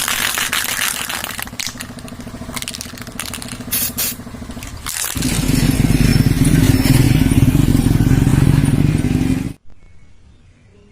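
Motorcycle engine running with a fast, rattly firing beat for about five seconds, then louder and steadier for several seconds before cutting off abruptly near the end.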